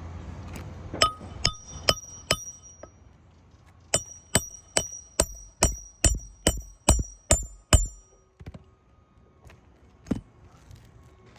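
Hammer blows driving a roofing nail into a shingle, ringing sharply like metal on metal. Four light taps come first, then a quick run of about ten harder, evenly spaced blows that stop abruptly, followed by a couple of scattered knocks.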